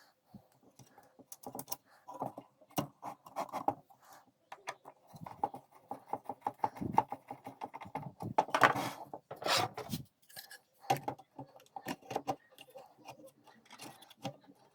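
Irregular clicking, tapping and short scraping of small hard objects being handled and set down, with a few louder clatters about nine and ten seconds in.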